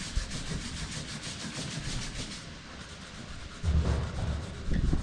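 Hand sanding with 120-grit sandpaper: quick, even back-and-forth scratching strokes that stop about two and a half seconds in. Near the end come a couple of dull low knocks and rumbles.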